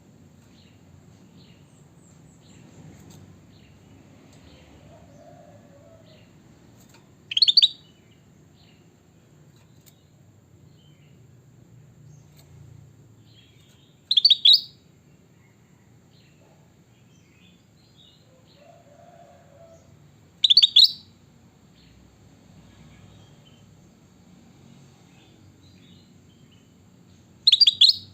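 A bulbul of the kind kept as a 'kutilang batik' calling: four short, loud, high chirping calls spaced about seven seconds apart, with faint twittering in between.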